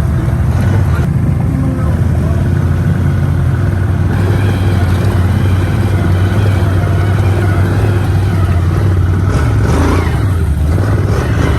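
A vehicle engine running steadily: a continuous low drone with no clear revs.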